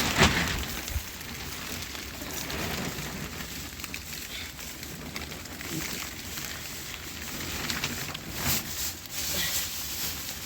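Steady patter of rain, with fine scattered drips and a sharp knock just after the start.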